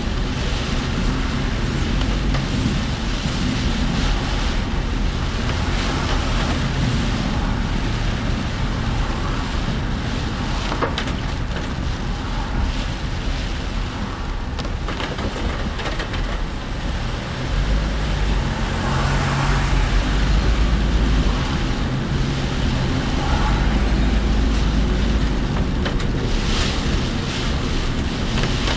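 Steady road and engine noise of a car driving, heard from inside the car in typhoon wind and rain. A deeper rumble swells twice, about two-thirds of the way through and again near the end.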